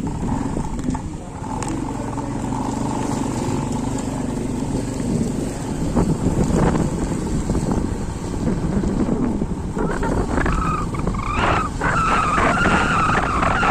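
A motor vehicle's engine running close by, over a steady wash of rain noise.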